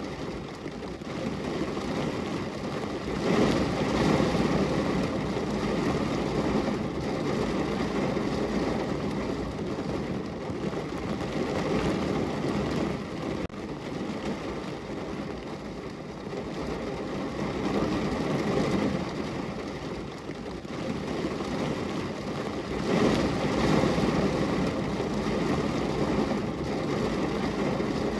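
Rain falling on a window: a steady wash of noise that swells louder twice, a few seconds in and again near the end.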